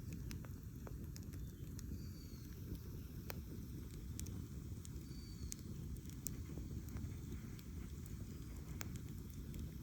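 Campfire burning, with scattered sharp crackles and pops of burning wood over a steady low rumble.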